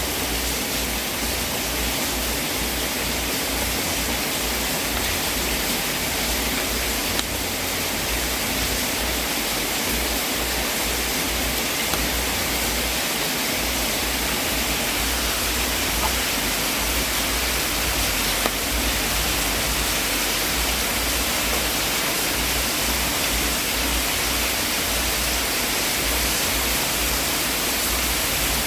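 Wood fire burning in a fireplace: a steady hiss with a few faint pops.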